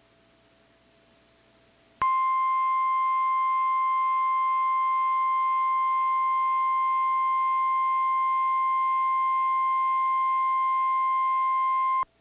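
NOAA Weather Radio warning alarm tone: a single steady 1050 Hz tone that comes on about two seconds in, holds for about ten seconds and cuts off sharply. It signals that a warning broadcast, here a severe thunderstorm warning, is about to follow.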